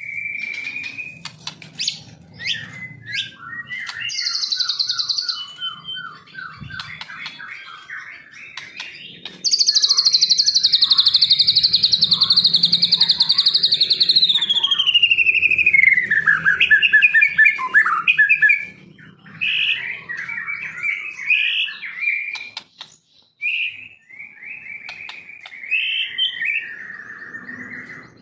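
White-rumped shama (murai batu) singing a varied song of whistled notes and quick repeated phrases, with a loud, long trill starting about ten seconds in that slides down in pitch a few seconds later.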